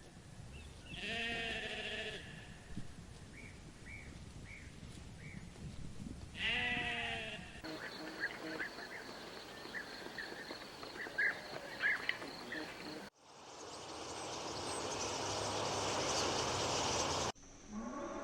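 Two drawn-out bleats, about five seconds apart. After a cut come short high chirps over a steady high tone, then a hiss that grows louder.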